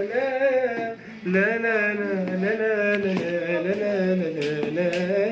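A man singing a wordless, wavering melody, with a steady low note held underneath in short pieces.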